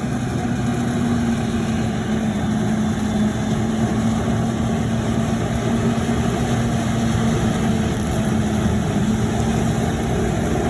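A vehicle engine running steadily with an even, low hum that does not change.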